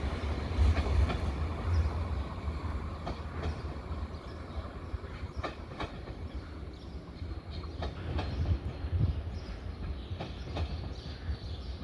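Renfe class 449 electric multiple unit rolling along the track: a steady low rumble of the wheels with irregular sharp clicks as they pass over rail joints and points.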